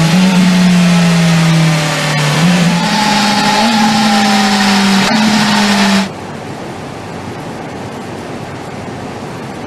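BMW motorcycle engine running at high, steady revs, its pitch stepping up a few times, then cutting off abruptly about six seconds in, leaving a quieter steady rushing noise.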